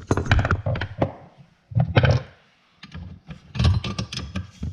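A wrench working a penetrating-fluid-soaked nut off the stud of a vent window assembly: four short spells of metallic clicking and scraping.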